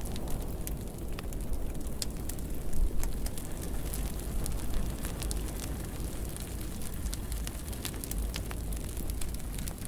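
Wood fire burning in a fireplace, a steady low rumble of flames with frequent irregular crackles and pops.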